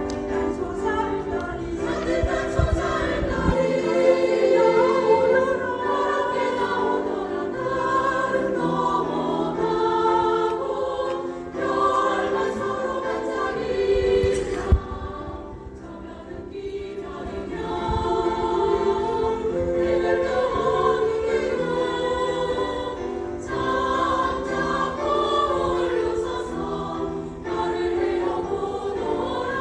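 Amateur choir singing a song in harmony, phrase after phrase, with brief dips between phrases. There is a single sharp click about halfway through.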